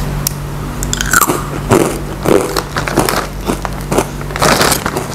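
A child biting into and chewing a crunchy chocolate-flavoured stick snack, a run of irregular sharp crunches picked up close by a clip-on microphone.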